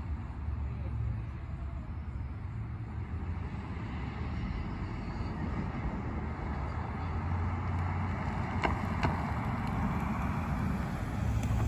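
Steady low vehicle rumble, growing slightly louder, with two short clicks about nine seconds in.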